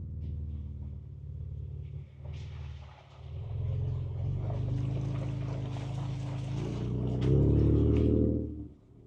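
Ford Ranger Raptor's twin-turbo V6 engine running under load, heard from inside the cab, with tyre noise and knocks from driving over rough trail ground. The engine gets louder and higher about seven seconds in, then drops away just before the end.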